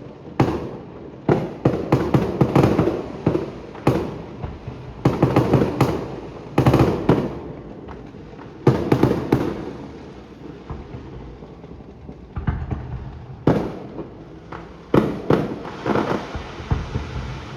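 Fireworks display: aerial shells bursting in irregular succession, sharp bangs each trailed by a short ringing echo, with a brief lull about ten seconds in before the bangs pick up again.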